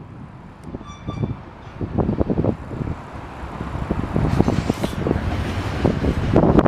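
Strong wind buffeting the microphone on a station platform while a subway train approaches, its noise building over the last few seconds. A brief high double tone sounds about a second in.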